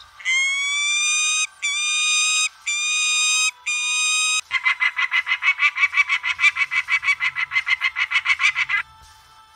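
Peregrine falcon calling: four long, high, wailing notes of about a second each, then a rapid run of short repeated cackling notes that stops near the end.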